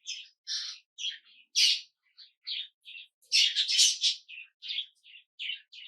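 Small birds chirping in quick, short, separate calls, with a louder, denser run of chirps a little past the middle.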